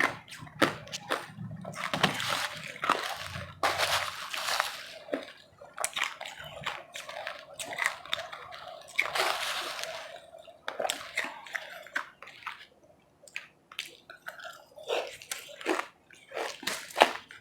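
Powdery ice being bitten and chewed: irregular crunches and clicks in uneven clusters, with brief lulls.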